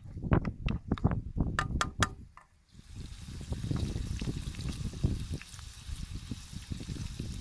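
Liver frying in a black pan over a wood fire, stirred with a wooden spoon that knocks and scrapes against the pan. Just under three seconds in, a steady sizzle sets in, and chopped onion goes into the hot pan.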